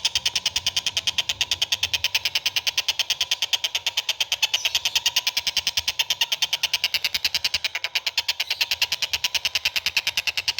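A bird tutor recording: a bird calling in a fast, steady series of sharp, high notes, about eight a second.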